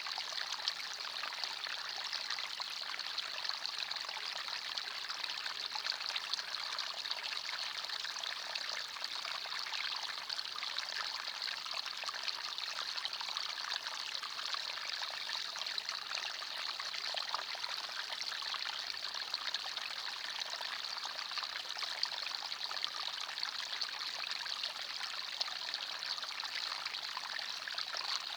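Small forest stream flowing and trickling over stones: a steady, even babble of running water with fine splashing detail.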